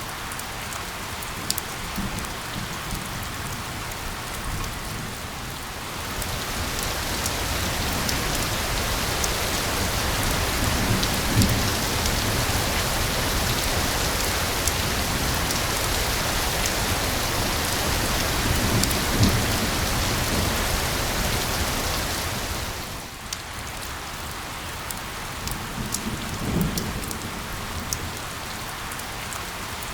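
Steady rain with individual drops ticking. The rain grows heavier about six seconds in and eases back a little after twenty seconds, with a few low rumbles.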